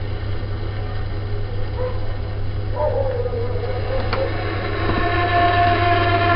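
Vaillant gas boiler running with a steady low hum while an odd tonal drone comes in, wavers in pitch, and from about five seconds in settles into several steady tones that grow louder. This is the unexplained noise that stops when the boiler's air inlet is adjusted. A single sharp click about four seconds in.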